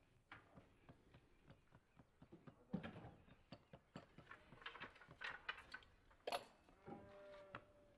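Faint, irregular clicks and knocks of kitchen work with utensils, with a brief steady tone about seven seconds in.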